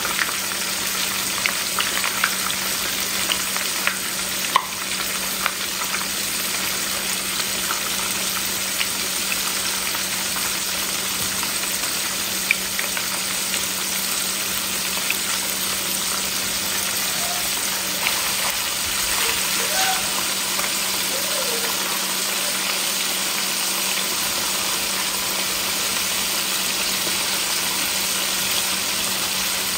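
Breaded shrimp frying in a pan of hot cooking oil: a steady sizzle with scattered crackles and pops.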